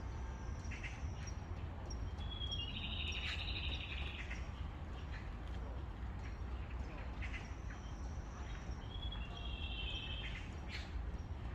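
Songbirds calling over a steady low background rumble. There are two longer trilling phrases, one about three seconds in and one near the end, with short high chirps between them.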